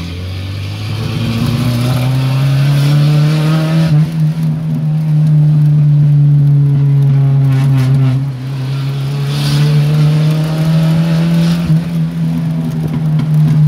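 Fiat Uno engine running loud through a straight-pipe exhaust with no muffler while driving. The note climbs over the first few seconds as it accelerates, holds, dips briefly about eight seconds in, then picks up again.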